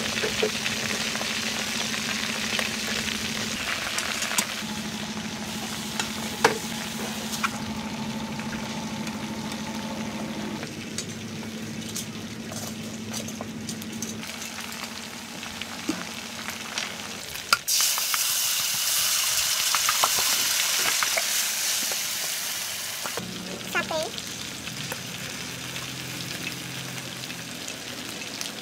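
Battered chicken pieces deep-frying in a wok of hot oil: a steady sizzle and bubbling, with metal tongs clicking against the pan now and then. About 17 seconds in, a sharp knock and the sizzle suddenly turns louder and brighter for about five seconds before settling back.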